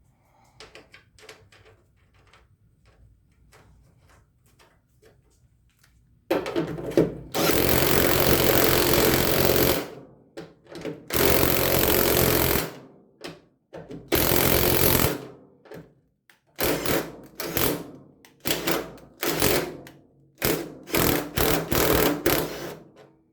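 Impact wrench hammering a nut along a threaded stud to chase and clean its threads. After a few seconds of faint light clicks, it comes in three long runs of a second or more each, then a quick string of shorter bursts near the end.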